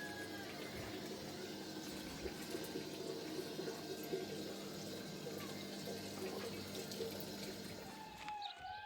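Water running steadily, with a low steady hum underneath; it dies away near the end.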